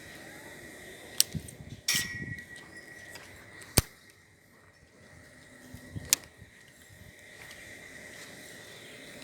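Five sharp clicks and knocks a second or two apart, over a steady faint insect hum.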